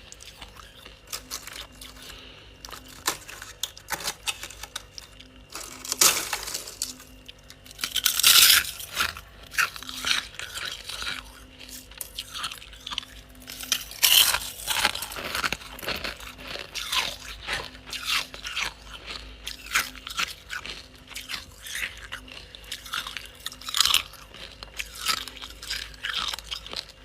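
Ice cubes being bitten and chewed close to the microphone: irregular loud crunches and cracking, with several big bites about 6, 8, 14 and 24 seconds in, and smaller crackles of chewing between.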